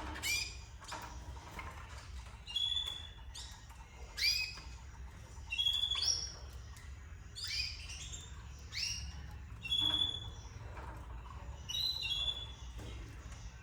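Canaries chirping: a string of short separate calls about once a second, some quick upward sweeps and some brief level whistles.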